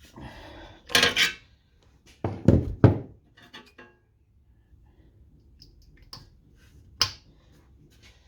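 Clatter and knocks of metal engine parts and tools being handled and set down on a workbench. A cluster comes about a second in, two louder knocks follow between two and three seconds, and a single sharp one comes near the end.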